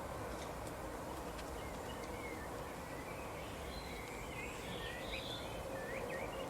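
Birds chirping in short scattered chirps, thickest about four to six seconds in, over a steady background hiss.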